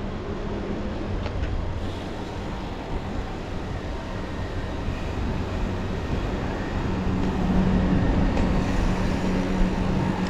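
Road traffic and wind noise heard while riding a bicycle: a continuous rumble with a steady motor-vehicle engine hum that grows louder in the second half.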